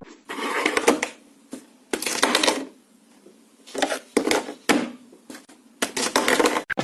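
Rapid clattering and rattling in about five bursts, each lasting up to a second, with quiet gaps between.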